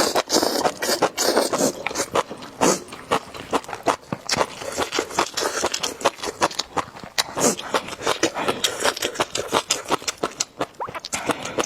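Close-miked eating of noodle soup: slurping and chewing, with many quick, irregular wet clicks.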